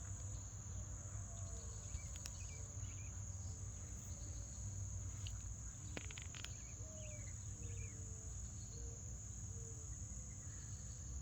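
Morning outdoor chorus: a steady high-pitched insect trill like crickets throughout, with mourning doves cooing in short low runs twice and a few small birds chirping briefly.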